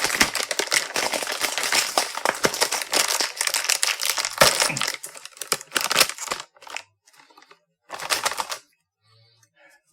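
Plastic snack bag crinkling and crackling as it is handled and opened: a dense crackle for about six seconds, then a short burst of crinkling about eight seconds in.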